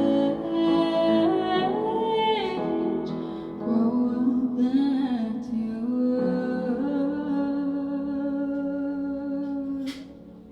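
A woman singing long, held notes with sliding pitch over piano accompaniment, ending with the final note of the song. The sound cuts off with a sharp click near the end.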